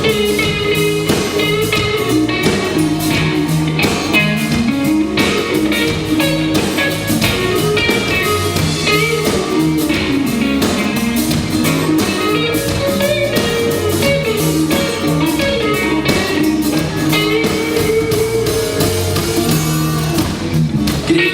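Live rock band playing an instrumental break without vocals: a guitar carries a moving, gliding melody over bass and steady drum beats.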